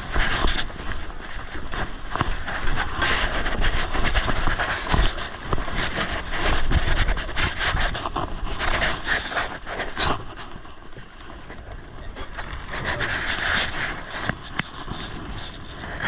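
Wind buffeting the microphone and water rushing along the hull of a Snipe sailing dinghy under way, a steady noise that swells and eases in gusts.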